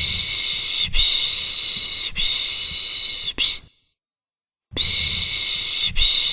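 Soothing 'pış pış' shushing for a baby: a run of long hissed 'shh' sounds, about one a second, with a silent pause of about a second partway through before the shushing starts again.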